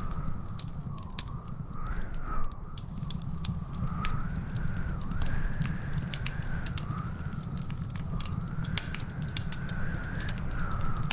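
Wood fire crackling in a fireplace, with many small sharp pops over a steady low rumble. A thin whistling tone that wavers up and down runs underneath.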